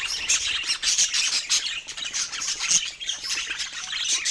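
Budgerigars chirping and squawking in a dense, continuous chatter of quick, overlapping high calls.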